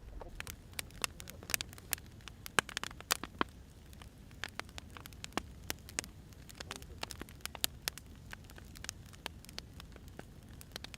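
Wood fire crackling: irregular sharp pops and snaps of burning logs over a low, steady rumble of the flames.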